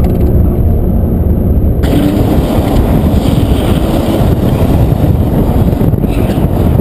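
BMW M5 E34's straight-six engine running hard under throttle, heard first inside the cabin, then about two seconds in the sound changes abruptly to a rougher, noisier mix of engine and road noise from outside the car.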